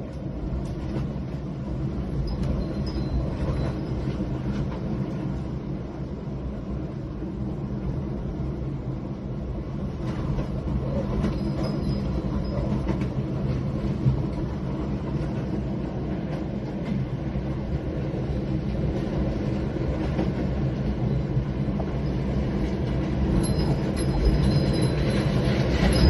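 A steady low rumble that goes on without a break and grows somewhat louder near the end.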